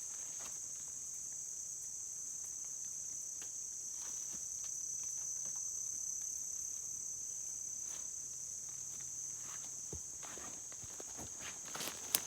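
Steady high-pitched insect chorus, with a few short clicks or footsteps near the end.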